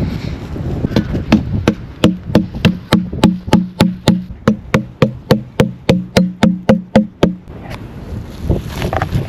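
Steady, rhythmic chopping on a wooden board, about three to four blows a second, each with a short hollow knock; the strikes stop abruptly about seven seconds in.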